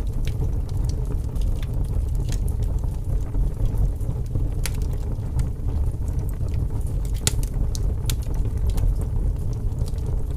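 Wood fire burning in a fireplace: a steady low roar with scattered sharp crackles and pops at irregular moments.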